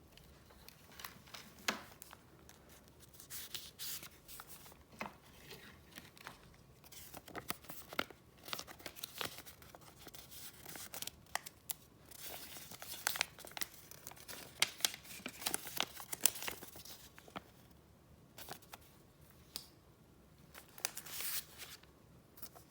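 Paper and packaging handled by hand: rustling and crinkling with small sharp crackles, in irregular spurts that are busiest in the middle.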